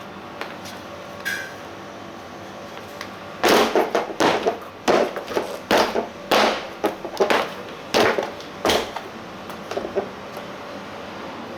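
A quick run of about a dozen knocks and rattling thuds, starting about three seconds in and stopping around nine seconds, over a steady low hum.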